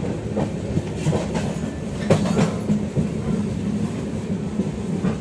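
Moving Intercity Express passenger coach heard from its open door: a steady rumble of wheels on rails, with clacks over the rail joints and a few sharper knocks about two seconds in.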